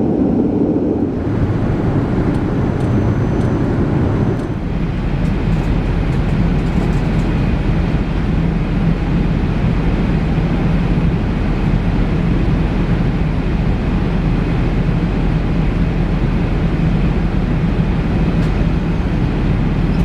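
Steady cabin noise of an Airbus A380-800 airliner in flight: a continuous rush of engine and airflow noise with a low hum. Its character changes abruptly about one second and again about four and a half seconds in.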